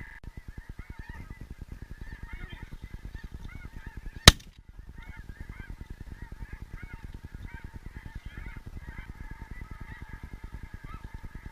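A large flock of snow geese calling, many high honks overlapping without a break. One loud, sharp shotgun shot cracks out about four seconds in.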